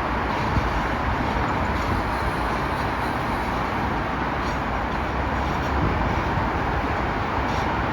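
A train running on the rails: a steady rumble and rushing noise with no change in level.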